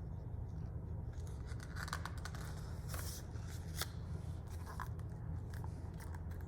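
Paper pages of a picture book being handled and turned: soft rustles and a few faint clicks over a steady low hum.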